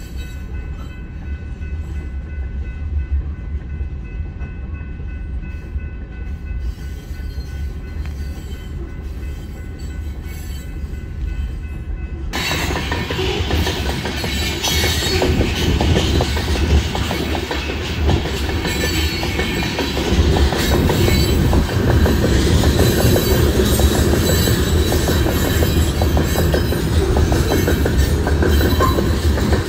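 Covered hopper cars of a freight train rolling past, wheels rumbling and clattering on the rails. For the first twelve seconds or so it is muffled, heard through a car's windows with a few faint steady tones over it; then it suddenly opens up into a louder, fuller trackside rumble and clatter.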